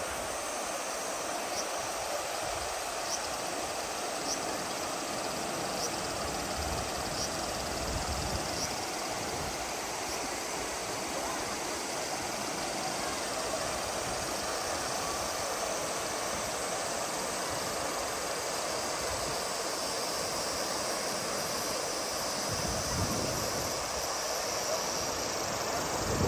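Steady, even rush of a mountain river's water running over rocks. In the first few seconds, faint short high chirps repeat about every second and a half.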